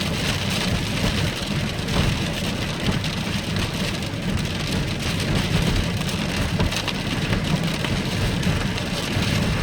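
Rain from a storm hitting a car while it is being driven, as a steady hiss with a constant low rumble from the car underneath and a few sharp drop ticks.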